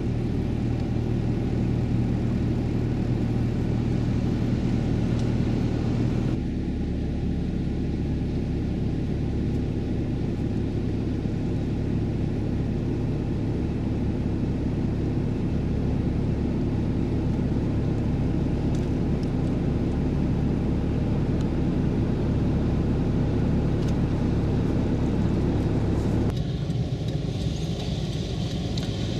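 A vehicle engine running steadily, a low drone with a constant pitch; its tone shifts about six seconds in and again near the end.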